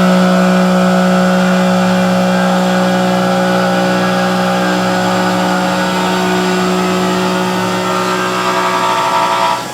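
CNC milling machine roughing out an aluminium part: a steady machine hum with a constant tone and higher whine, the low tone dropping away and a higher tone coming in near the end.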